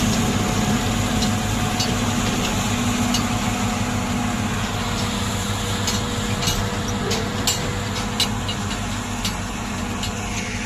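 Tractor engine running steadily, driving a silage cutter, with scattered sharp clicks in the second half.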